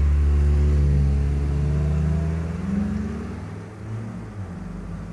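A motor vehicle's engine running with a low, steady hum that wavers a little in pitch. It grows quieter over the second half and dies away near the end.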